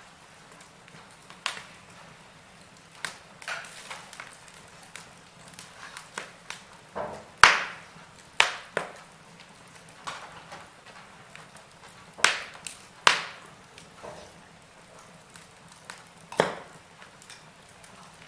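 Wood fire crackling: irregular sharp pops and snaps over a faint steady hiss, a few of them much louder than the rest.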